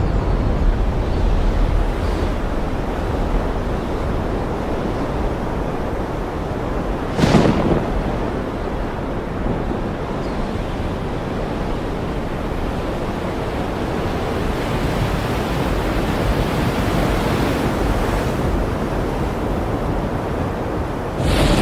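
Ocean waves in steady surf, with a brief sharp crack about seven seconds in and a loud clap of thunder starting near the end.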